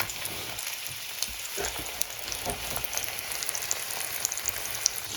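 Burger patties frying in a hot pan: a steady sizzle with small crackles and pops.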